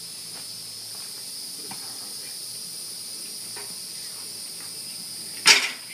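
Outdoor insect chorus, a steady high-pitched chirring at two pitches. About five and a half seconds in, a single loud knock cuts through it.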